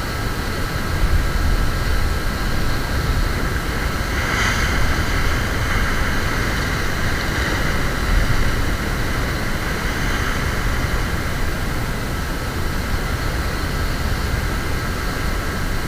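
Wind rumbling on the microphone over surf washing on a beach, a steady noise with a louder hiss about four seconds in.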